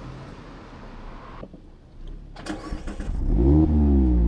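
Mazda MX-5's 1.5-litre four-cylinder engine cranking and starting, revving up briefly and then settling toward idle. A few knocks come just before it, the loudest about half a second before it starts.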